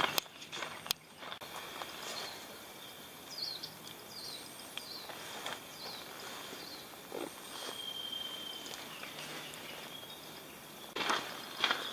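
Outdoor woodland ambience with a few short, high bird chirps in the middle. Footsteps on a path at the start stop, then resume near the end.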